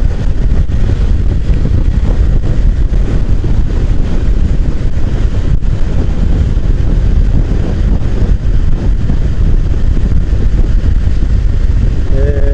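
Motorcycle riding at road speed, with heavy wind rushing over the microphone.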